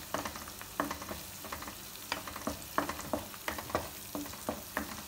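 Slit green chillies and ginger-garlic paste sizzling in hot oil in a kadai, while a spoon stirs them and knocks and scrapes against the pan many times, irregularly.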